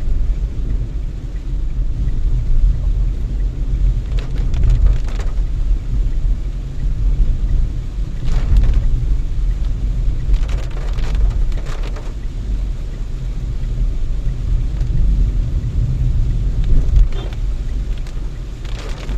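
Inside a moving Renault Triber: the steady low rumble of engine and tyres on the road, with a few brief hisses about four, eight and eleven seconds in.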